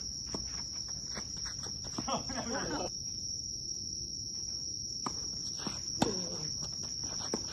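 Steady high-pitched drone of insects, with a few sharp knocks of tennis balls, the loudest about six seconds in.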